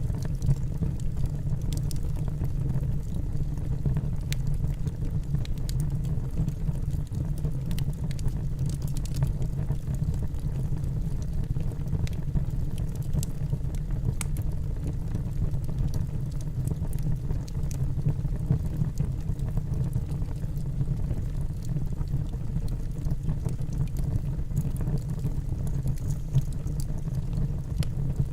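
Wood fire burning in a fireplace: a steady low roar of the flames with scattered small crackles and pops from the burning logs.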